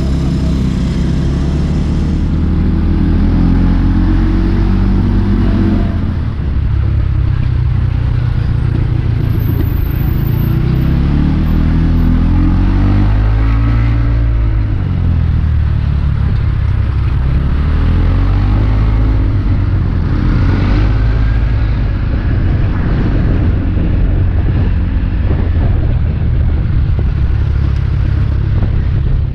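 Small motorbike engine running under way, its pitch rising and falling with the throttle over steady road and wind noise.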